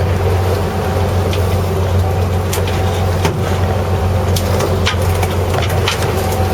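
Fishing boat's engine running steadily with a deep drone, with scattered short clicks over it.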